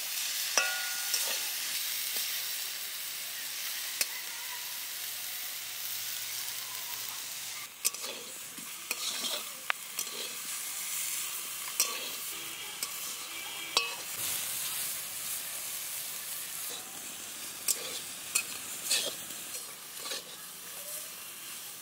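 Pumpkin leaves sizzling as they are stir-fried in an aluminium wok, with the spatula scraping and tapping against the metal. From about eight seconds in, the steady sizzle carries on under scattered sharp clicks and taps.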